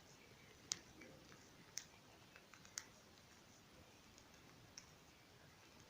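Near silence broken by four short, sharp clicks, the first three about a second apart.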